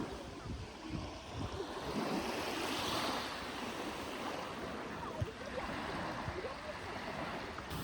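Small sea waves washing up and draining back on a beach, swelling about three seconds in, with wind buffeting the microphone.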